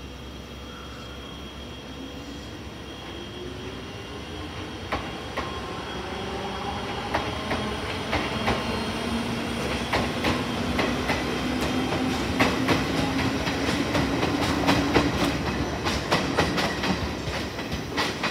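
Electric train accelerating along the platform: its motor whine rises in pitch while the wheels click over rail joints, the clicks coming louder and more often as it gathers speed.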